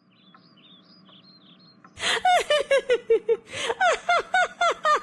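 A voice laughing hard in a quick run of 'ha-ha' syllables, each falling in pitch, starting about two seconds in. Before that, faint high bird-like chirps.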